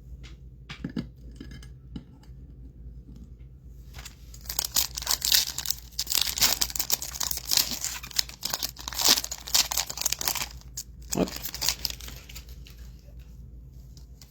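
Foil wrapper of a Topps Chrome football card pack being torn open and crinkled: a dense, crackling run of tearing for about seven seconds in the middle, with a few light handling clicks before it and a sharper tick near the end.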